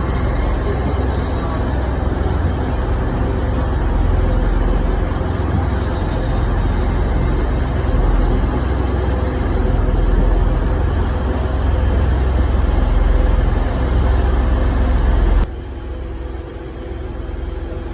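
A train running with a heavy, steady low rumble and a steady hum. It drops suddenly to a quieter rumble near the end.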